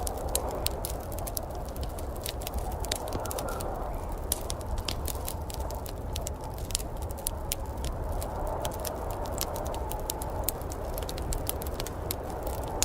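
Wood fire in a fireplace crackling, with many sharp pops and snaps at an uneven rate, over a steady low rushing background.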